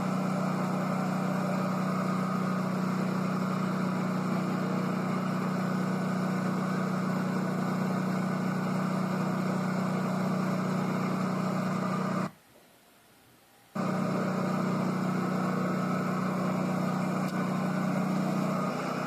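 Heritage electric streetcar running, a steady low hum with a rumble over it. The sound cuts out abruptly for about a second and a half near the middle, then comes back the same.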